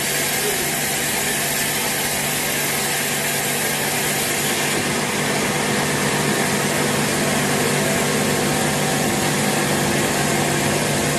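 Sawmill machinery running steadily: a continuous engine-like hum under a dense hiss, getting a little louder about halfway through.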